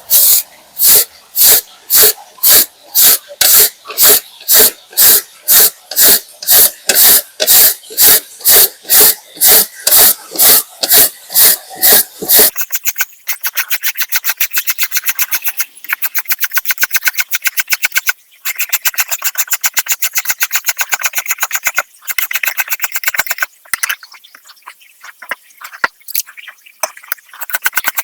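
A knife chopping on a cutting board in steady strokes, about three a second. About twelve seconds in it switches to faster, lighter rapid chopping.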